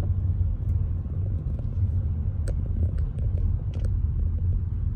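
Steady low rumble of a car driving, heard from inside the cabin, with a few faint clicks around the middle.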